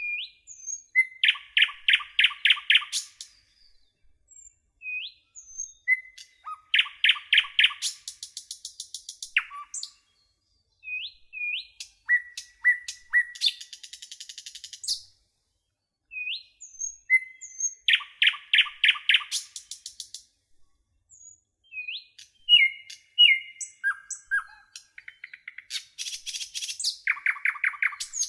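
A songbird singing in phrases separated by short pauses, each opening with brief upslurred whistles and running into fast trills of rapid, evenly repeated notes.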